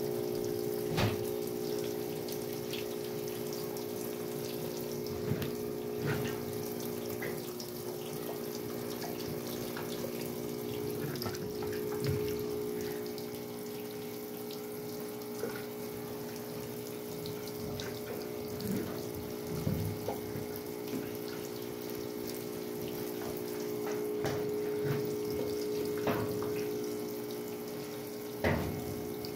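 Westinghouse washing machine running, with water splashing inside the tub over a steady hum. There are scattered knocks, the loudest near the end.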